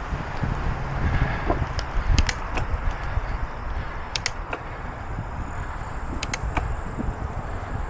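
Wind buffeting the microphone and tyre rumble from a bicycle riding along a paved trail, with a sharp double click about every two seconds.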